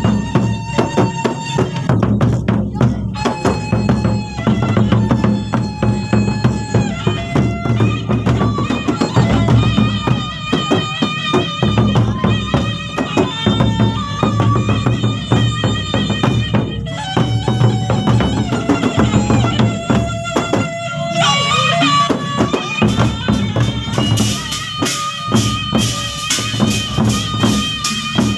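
Gendang beleq ensemble playing: large drums beating in dense rapid patterns with clashing cymbals under a held, stepping wind melody. The cymbals grow louder and brighter near the end.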